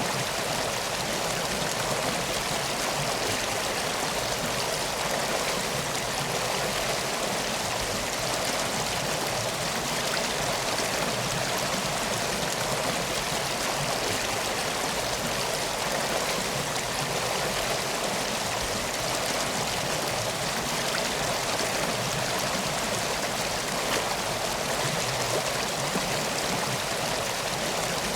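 Steady rushing of a flowing river, an even wash of water noise with no breaks or changes.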